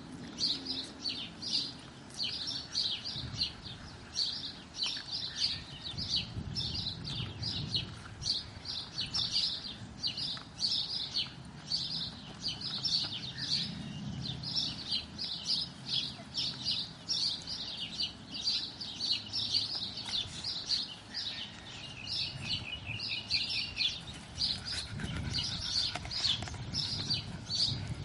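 Small birds chirping continuously in quick repeated chirps, about three a second. Beneath them come soft low scuffling sounds from puppies chewing and tugging at a sneaker on dry dirt.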